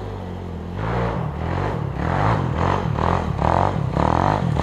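Dirt bike engine revving in quick, repeated throttle blips, about two a second, the pitch rising and falling with each one; it gets louder about a second in.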